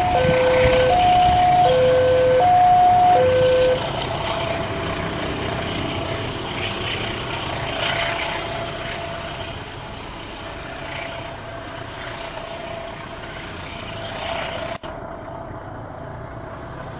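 Railway level-crossing alarm sounding an electronic two-tone signal, switching between a higher and a lower note about once every three-quarters of a second, that stops about four seconds in. After it comes a steady noise with a faint held tone that slowly fades, broken abruptly near the end.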